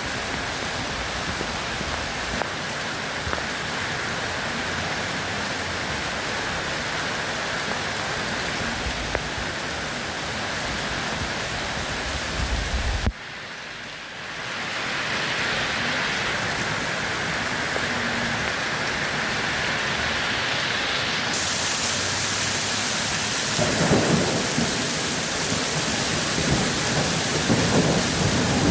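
Steady rain. A little under halfway through it drops out suddenly and fades back in, and in the last five seconds thunder rumbles under the rain.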